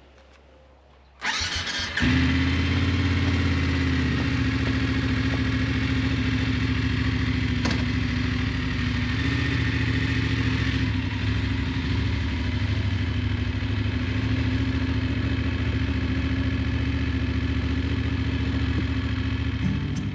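Motorcycle engine started on the electric starter about a second in. It catches within a second and settles into a steady idle.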